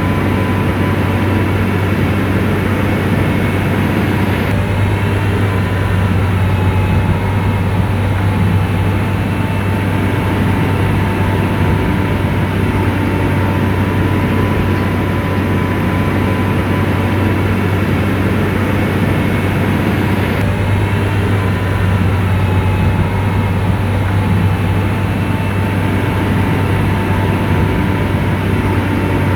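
Komatsu bulldozer's diesel engine running steadily with a deep, even hum and a faint steady whine above it.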